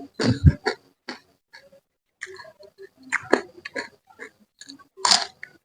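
Close-miked eating sounds of a spicy manyung fish head: chewing and lip-smacking in short, irregular bursts with brief pauses between.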